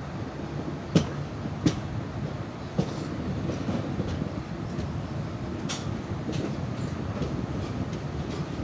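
Ananthapuri Express passenger train running along the track: a steady rumble with a few sharp wheel clacks over rail joints, the loudest about one, nearly two and three seconds in, and lighter ones after.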